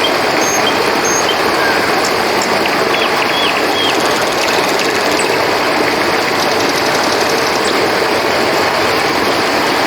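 Steady rushing of flowing river water, with short high chirps scattered over it and a brief rapid trill of ticks about two-thirds of the way through.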